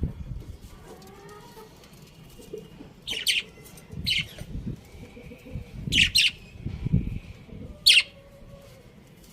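Budgerigars chirping: short, sharp high calls, several in quick pairs, with low thumps in between.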